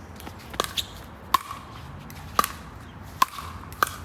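Pickleball rally: paddles striking a plastic pickleball with sharp pops, six hits at uneven gaps of about a second, two of them in quick succession.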